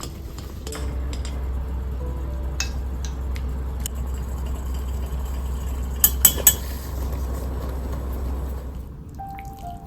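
A steady low mechanical hum that starts under a second in and stops shortly before the end, with three quick sharp clinks about two-thirds through.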